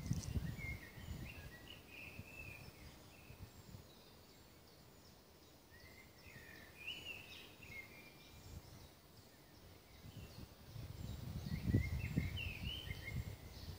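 A songbird sings short phrases three times. Low rumbles come near the start and again, louder, near the end.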